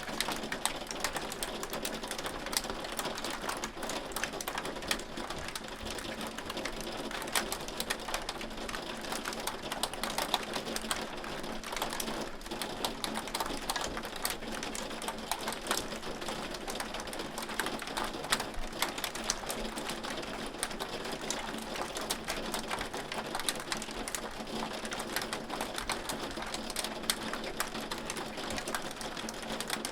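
Hail falling: a dense, steady clatter of countless small sharp ticks, with louder single hits scattered throughout.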